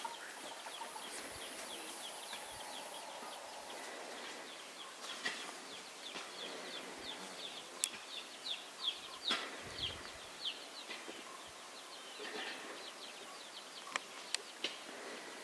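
Birds chirping: a quick run of short, falling chirps, busiest from about five to twelve seconds in, with a few sharp clicks among them.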